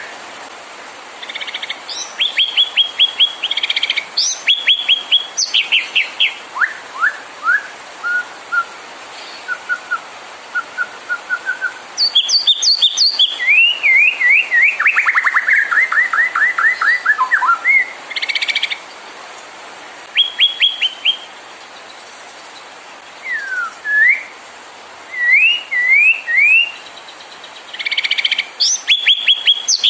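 White-rumped shama singing: varied phrases of rapid repeated notes, whistled slurs and rising notes, with short pauses between them.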